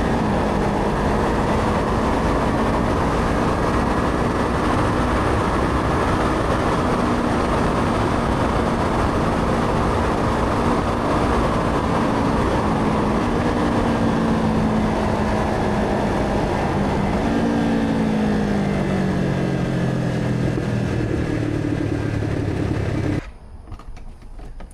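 Motorcycle engine running at speed under a heavy rushing noise. In the second half its note steps down and falls as it slows, and the sound cuts off suddenly near the end.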